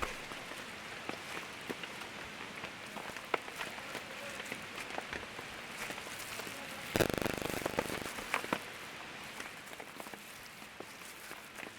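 Rain falling steadily, with scattered drops ticking on nearby surfaces. About seven seconds in there is a brief louder burst of handling noise.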